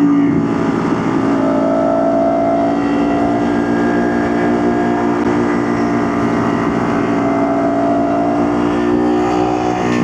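Motorcycle engine running under steady throttle while riding, its pitch holding mostly level, with low wind rush over it.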